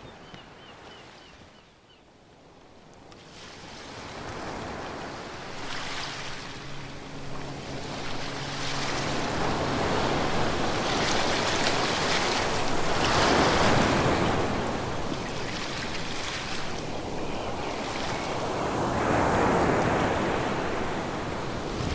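Ocean waves breaking and washing ashore in slow surges, building from quiet at the start to their loudest about two-thirds through, with another surge near the end.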